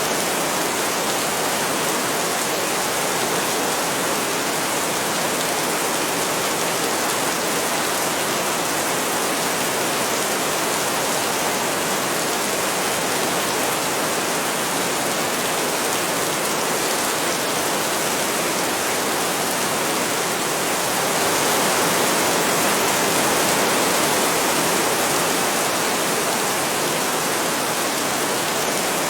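Heavy rain falling steadily, swelling slightly for a few seconds about three-quarters of the way through.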